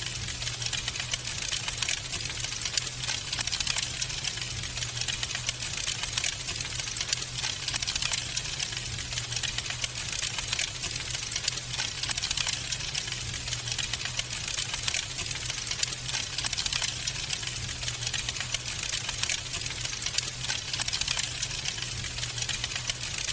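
Wood fire crackling in a fireplace: a dense run of small pops and snaps with a few sharper cracks, over a low steady hum.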